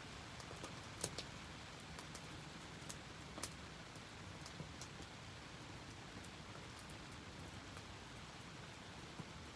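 Steady rain with a wood fire crackling, giving scattered sharp pops over the even hiss of the rain.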